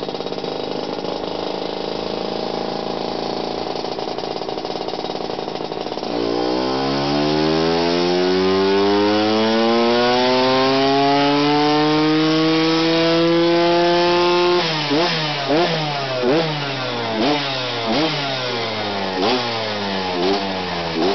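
Lambretta with a TS1 225 two-stroke single-cylinder kit and Jolly Moto expansion-chamber exhaust on a dyno: running steadily, then about six seconds in it goes to full throttle and the revs climb smoothly for about eight seconds in a dyno pull. The throttle is then shut and the engine is blipped over and over, about one rev a second.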